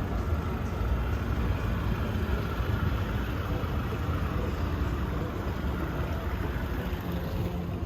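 Steady low rumbling background noise of a large hotel interior, with no distinct events standing out.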